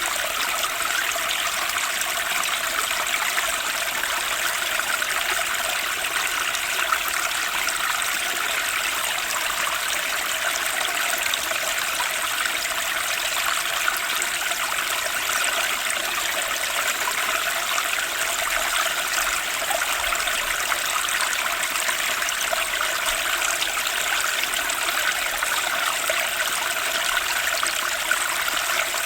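Turbulent stream water rushing and splashing over rocks, a steady, even flow.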